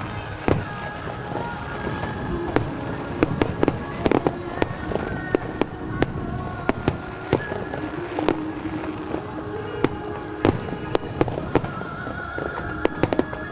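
Aerial fireworks bursting in a dense, irregular volley of sharp bangs and crackles, with music playing underneath.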